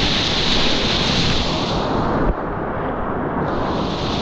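Rushing whitewater of a river rapid mixed with wind buffeting the microphone. The hiss cuts out suddenly about two seconds in and comes back about a second later.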